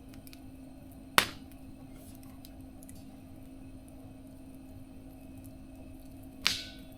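Wood fire burning in a mesh fire stove, crackling faintly with two sharp pops, one about a second in and a louder, longer one near the end.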